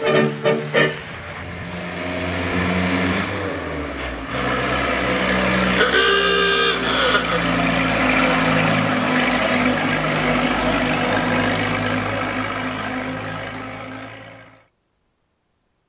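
1928 Morris Super Sports Tourer's engine running as the car drives, building to a loud rush of engine and road noise. A brief pitched sound cuts in about six seconds in, and the sound fades before cutting off about a second before the end.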